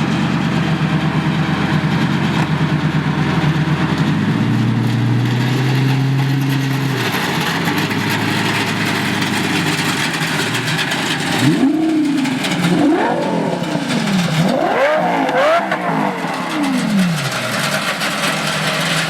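Lamborghini engine running through an oversized straight-through exhaust with giant tips: steady idle, then several quick revs that rise and fall in pitch in the second half.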